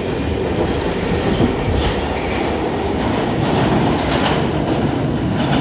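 A train moving along the track past the platform, a steady loud run of wheel-on-rail noise.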